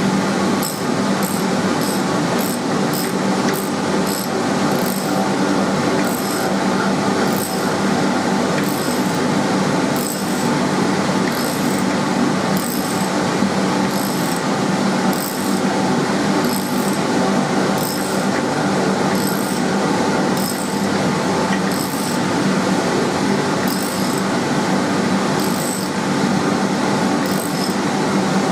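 Socket wrench ratcheting as a large rag bolt is tightened into the anvil stump, clicking in short bursts, quickly at first and then about once a second. A loud, steady mechanical hum runs underneath.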